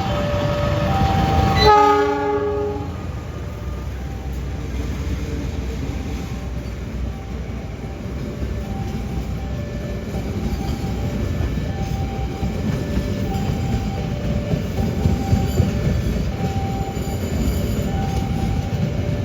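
A train horn sounds one loud, short blast about two seconds in, over the alternating two-tone warning alarm of a level crossing. A train then rolls past with a steady rumble, the wheel clicks growing sharper near the end while the crossing alarm keeps sounding.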